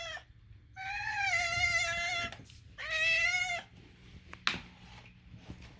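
Domestic cat making two high, drawn-out, wavering meows, the first about a second and a half long, the second shorter, followed by a single sharp click.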